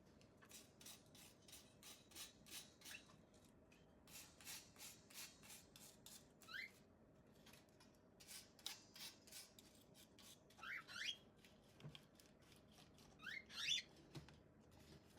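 Quick, light scratchy strokes of a small brush rubbing over plastic, about two a second with short pauses, along with a few brief high squeaks.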